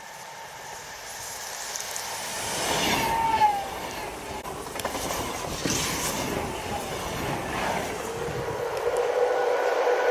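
ED250 Pendolino high-speed electric multiple unit passing through at speed: the sound builds as it approaches, peaks about three and a half seconds in with a brief falling whine, then stays loud with the steady rumble of wheels on rail as the carriages go by.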